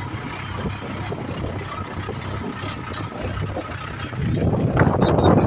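Tractor engine running steadily, with a low, even hum. About four seconds in the sound turns louder and rougher.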